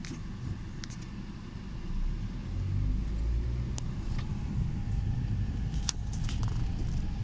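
TECO Line streetcar rumbling as it moves, the low rumble building about two seconds in and then holding, with a few sharp clicks over it.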